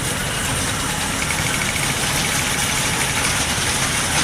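Engine of a night-market ride train running steadily, heard from aboard, with a faint rapid ticking for about two seconds in the middle.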